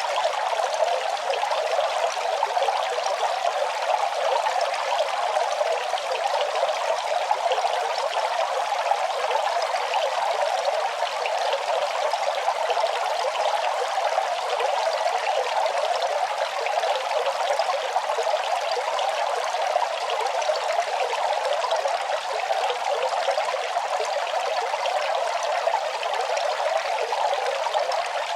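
Running water, a steady splashing trickle that stays even throughout.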